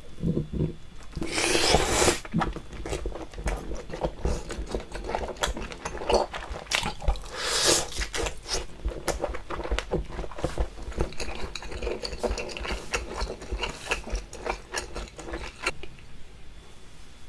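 Close-up wet chewing of chewy baby octopus in spicy sauce: dense squishy, crackling mouth sounds. Two louder, longer wet bursts come about a second in and about halfway through. The chewing dies down near the end.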